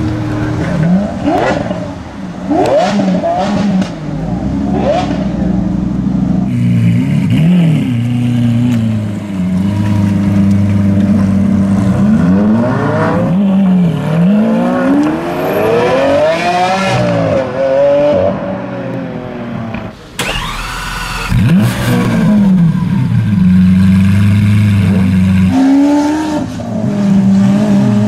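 Lamborghini Aventador SV's V12 revving and accelerating, its pitch sweeping up and falling back several times, with a few sharp exhaust cracks in the first few seconds. The sound breaks off briefly about 20 seconds in and comes back with more revving.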